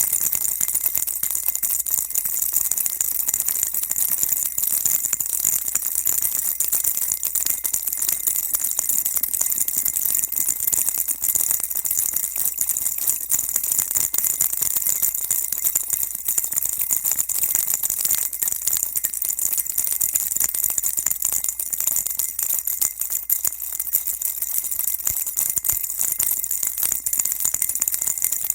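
Baby's rattle shaken continuously, a dense, steady high-pitched jingling rattle.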